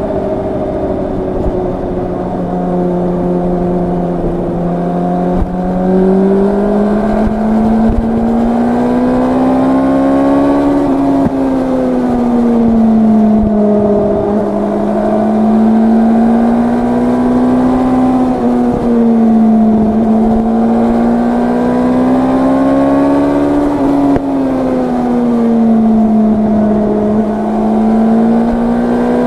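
Yamaha R1's crossplane inline-four engine running under way, heard from the rider's seat. The revs rise and fall in slow, smooth swells as the throttle is opened and eased, with no sharp gear-change breaks.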